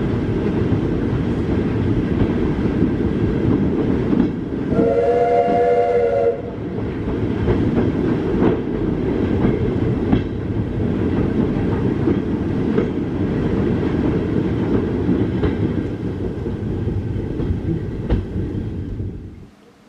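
Heritage railway train running along the track: a heavy rumble with occasional clicks from the rails. About five seconds in, a horn or whistle sounds a chord for about a second and a half. The sound cuts off suddenly just before the end.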